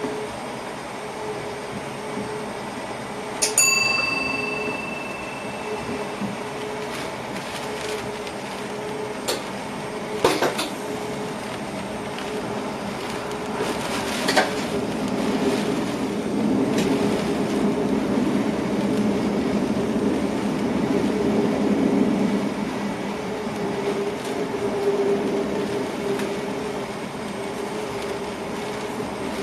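Running noise inside an electric passenger train's driving cab on the move: a steady hum from the train and the rolling wheels. A few sharp knocks come from the wheels over rail joints or points. A short ringing ping sounds a few seconds in, and the running noise grows louder through the second half.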